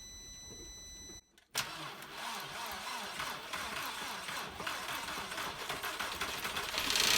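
Volkswagen 1.8T four-cylinder engine being cranked and starting for the first time after a cylinder head and head gasket replacement. A faint steady whine cuts off about a second in. The starter then comes in abruptly, and the mechanical noise grows louder toward the end as the engine catches.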